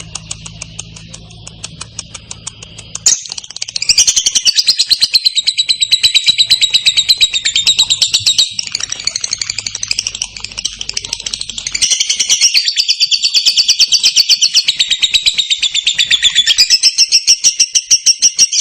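Lovebird ngekek: a long, unbroken, very fast chattering trill of high chirps. It is fainter at first and turns loud about three seconds in.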